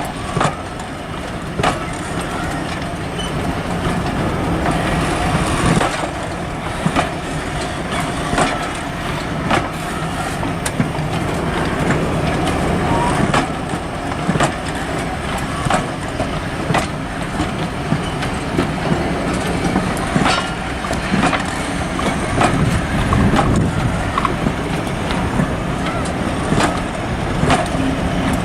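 A train on the move: a steady low rumble with sharp clicks and knocks coming irregularly, about once a second.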